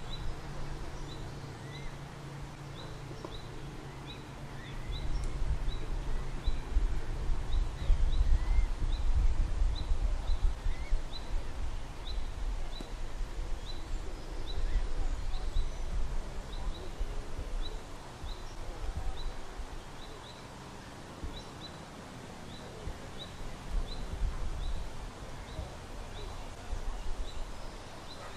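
Outdoor ambience with a small bird repeating a short high call about once a second, along with a few lower rising chirps. Underneath runs a low rumble that swells and fades.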